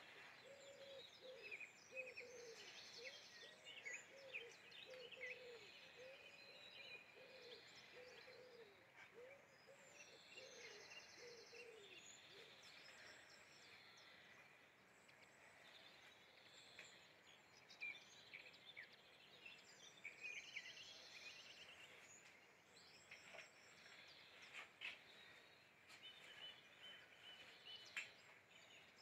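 Faint outdoor birdsong: several small birds chirping and trilling, with a lower-pitched bird calling in a long run of short repeated notes through roughly the first twelve seconds.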